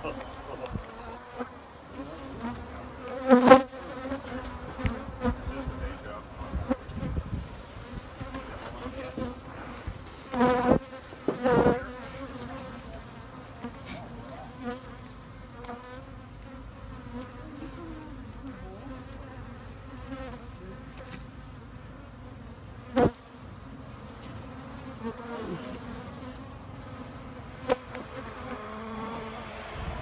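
Swarm of Africanized honey bees buzzing, a steady hum, broken by about five brief sharp knocks, the loudest about three and a half seconds in.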